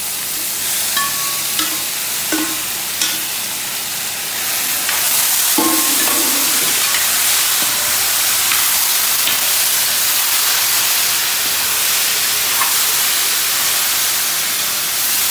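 Cooked chicken sizzling in hot coconut oil in a wide metal uruli as it is stirred into the fried mustard seeds and shallots with a metal spatula. The spatula clinks and scrapes on the pot a few times in the first six seconds. The frying hiss grows louder and steadier about five seconds in.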